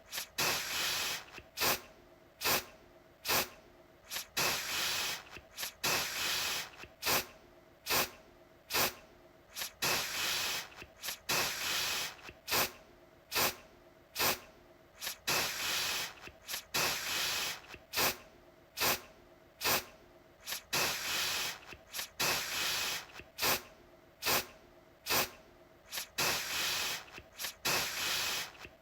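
Aerosol deodorant can spraying in short hissing bursts, about one a second, again and again, with sharp clicks between the bursts.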